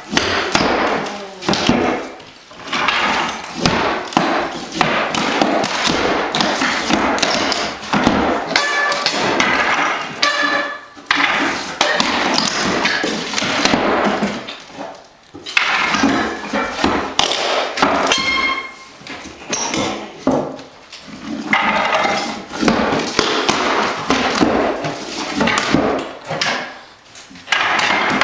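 Hammering while old hardwood floorboards are ripped up: dense, irregular strikes and knocks on wood, with a few brief pauses.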